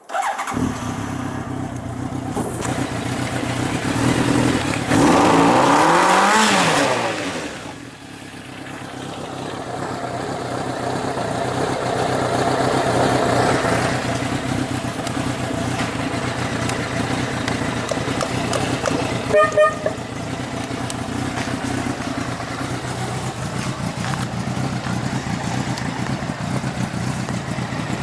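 Honda X4's 1284 cc inline-four motorcycle engine starting suddenly and running, revved once about five seconds in, with the pitch climbing and falling back over about two seconds, then idling steadily. Two short beeps come a little past the middle.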